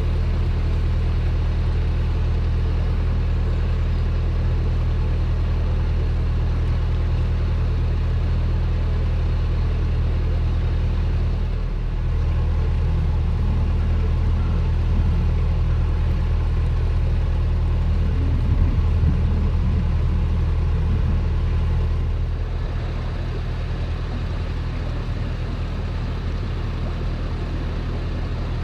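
Narrowboat's diesel engine running steadily under way, a low even hum. It gets a little quieter about three-quarters of the way through.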